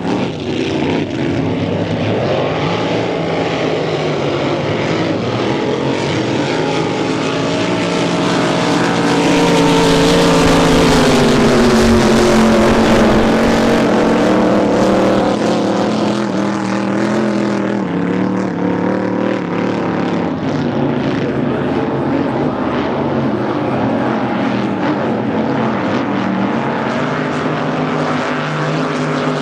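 Drag boat engine running at low speed, a steady multi-toned drone. It grows louder to a peak in the middle, with its pitch sliding down, then settles back to a steady running note.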